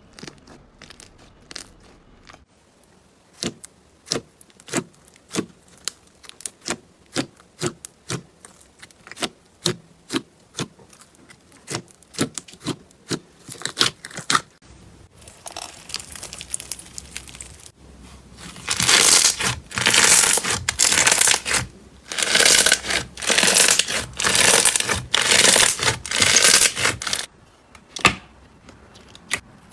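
Slime being pressed and squeezed by hand: a run of sharp pops and clicks, about two a second, then, past the middle, several louder stretches of dense crackling as it is squished.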